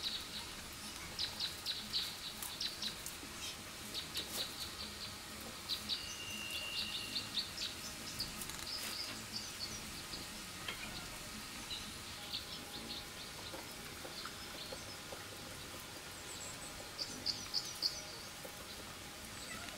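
Small birds chirping in quick runs of short high notes through the first half and again near the end, over faint rustling of dry palm-leaf strips being handled and woven.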